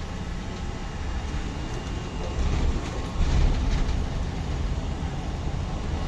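City bus running, heard from inside the cabin: a deep engine and road rumble with light rattling, getting louder about halfway through.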